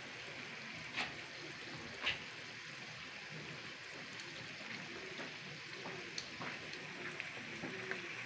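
Potato slices deep-frying in hot ghee in a kadhai: a steady sizzle, with a couple of louder crackles about one and two seconds in.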